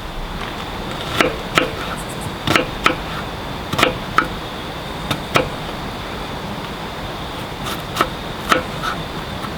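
Irregular sharp taps, often in pairs, over a steady hiss.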